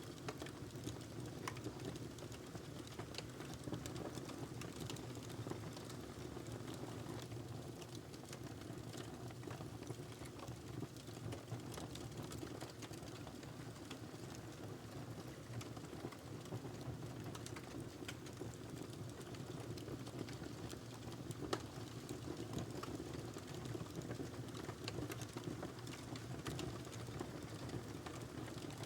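Wood fire crackling in a fireplace: a steady low rush of noise with frequent small pops and snaps, one sharper pop a little past the middle.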